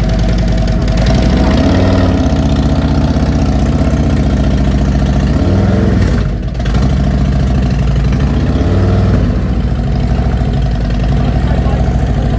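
A motorcycle engine idling steadily, rising briefly in pitch three times as the throttle is opened.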